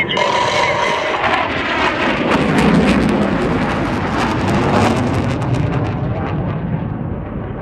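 Military jet passing low overhead: a loud rushing rumble that swells around three seconds in and dulls after about six seconds as it moves away.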